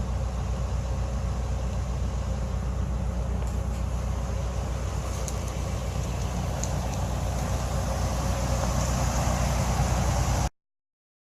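Steady low hum of a car's engine and road noise, heard from inside the cabin while driving. It cuts off abruptly near the end.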